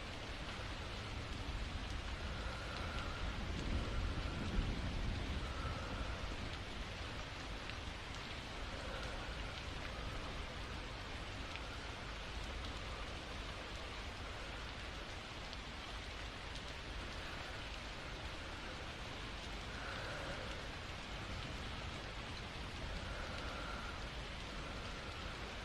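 Steady rain falling, with soft, slow breaths coming every few seconds over it. A low rumble swells and fades a few seconds in.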